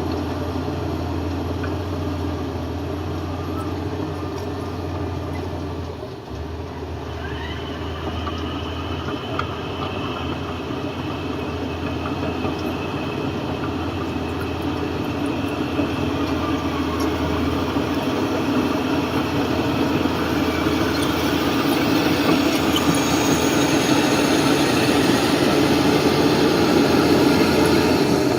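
Heavy diesel earth-moving machinery running steadily, its low engine hum joined by mechanical clatter that grows gradually louder, with a faint high whine partway through.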